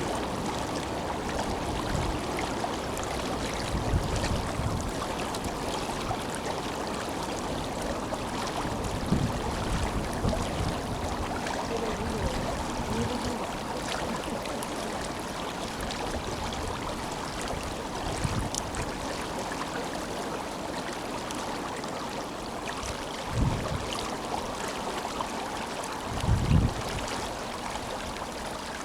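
Tenryū River flowing strongly, a steady rushing of water, with a couple of brief low rumbles late on.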